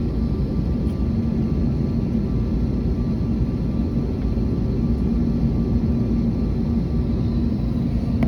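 Airbus A321neo jet engines running steadily: a constant drone with an even low hum and fainter high whining tones, with no rise or fall.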